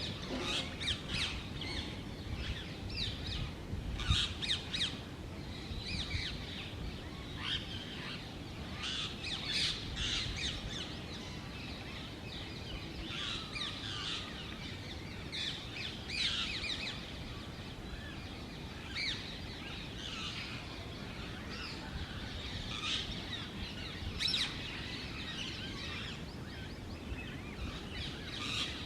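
Rose-ringed parakeets calling with shrill chirps and screeches, in clusters of calls with quieter stretches between, over a steady low background rumble.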